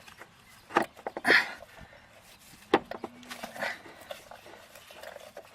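Scattered clicks and knocks of hand tools and metal parts being handled, a few sharp ones about a second in and near the middle.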